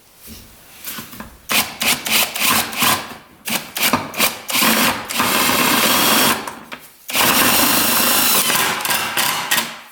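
Handheld power tool running in several short bursts, then in two longer runs of a couple of seconds each.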